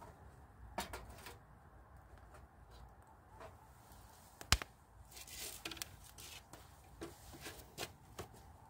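Small kindling fire in a fire pit crackling as split sticks are fed in: scattered faint clicks and snaps, with one sharp snap about four and a half seconds in.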